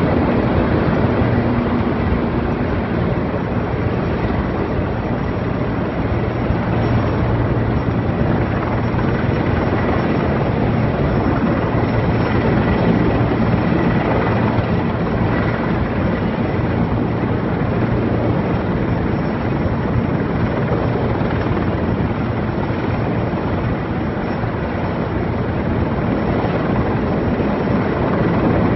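Erickson Air-Crane heavy-lift helicopter running steadily, its rotor and engine noise loud and unbroken.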